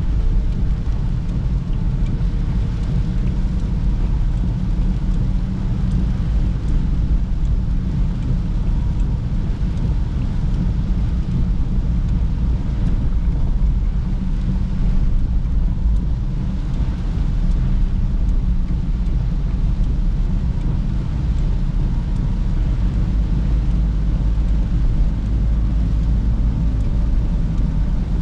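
Perodua Bezza's engine and tyre noise heard from inside the cabin while driving, a steady low rumble with a faint hum above it.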